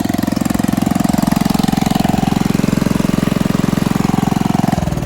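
An engine running steadily with a fast, even pulse, then falling away abruptly near the end.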